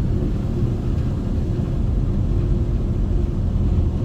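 Air dryer blowers of a Ryko SoftGloss XS car wash running at the drying stage: a steady low rumble with a faint steady hum.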